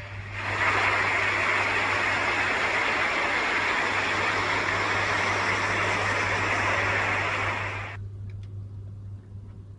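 A loud, steady rushing noise over a low hum, cutting off abruptly about eight seconds in, after which only a faint hum and a few ticks remain.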